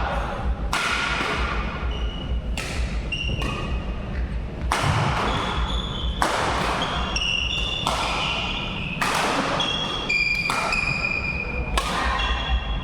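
Badminton rally: rackets striking the shuttlecock in sharp hits about every one to two seconds, with short high squeaks of shoes on the court floor between the hits.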